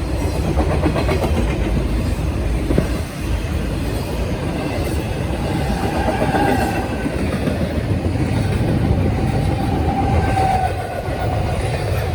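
Train passing, its wheels running steadily over the rails. Faint tones that slide slowly in pitch ride over it around the middle and near the end.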